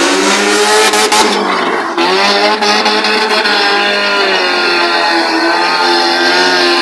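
Stunt car's engine revving hard while it is driven, its pitch rising and falling over and over, with tyre and skid noise in the first couple of seconds.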